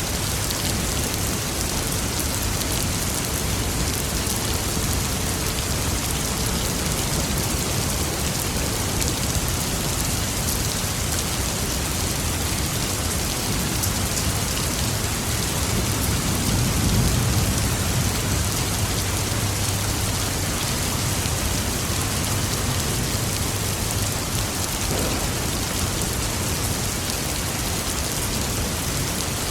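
Steady heavy rain pattering, with a low roll of distant thunder swelling and fading about halfway through.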